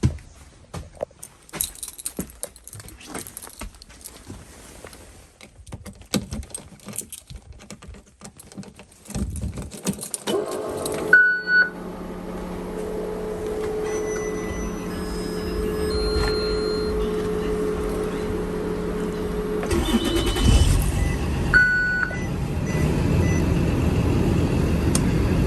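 Keys jangling and switch clicks, then a steady hum with two short beeps. About twenty seconds in, the Blue Bird TC 3000 school bus engine cranks, catches and settles into a steady idle.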